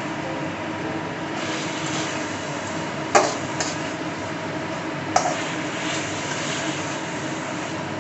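Chicken frying in a pan with a steady sizzle, while a metal spatula stirs it and knocks against the pan twice, sharply and with a short ring, about three and five seconds in.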